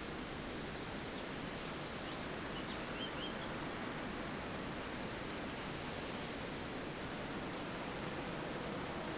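Steady wind rushing through forest trees, with a few faint, short bird chirps about three seconds in.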